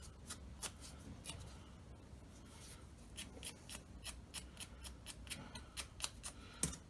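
Short, faint scratchy strokes on the cut ends of a thin carbon fibre rod as they are touched up, about three strokes a second, pausing for a second or so in the middle.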